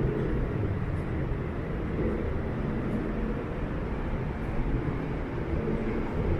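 Steady low rumble of distant city traffic, an even hum with no single event standing out.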